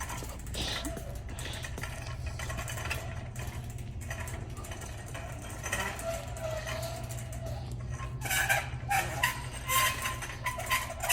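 Squeaky shopping-cart wheel squealing in short, wavering bursts as the cart rolls, over a steady low hum; the squeaks come thicker and louder in the last few seconds.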